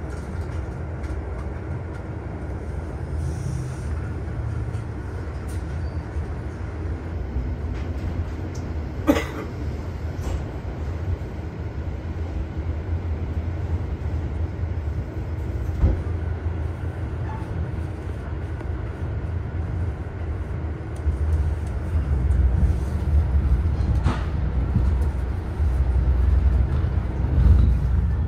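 Passenger train running on the rails: a steady low rumble that grows louder over the last third, with a few single sharp knocks from the running gear.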